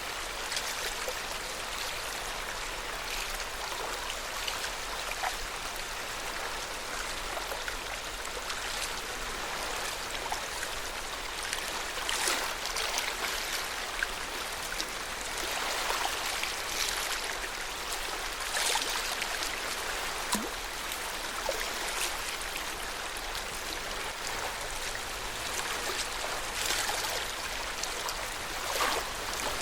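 Lake water lapping at the shore: a steady wash of water with frequent irregular small splashes.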